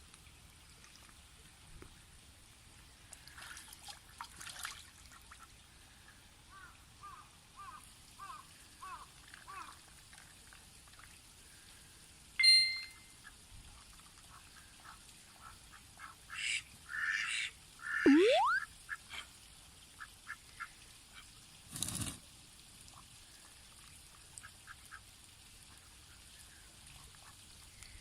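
Domestic ducks quacking: a run of soft, quiet calls at first, then a few loud quacks around the middle, followed by a single thump.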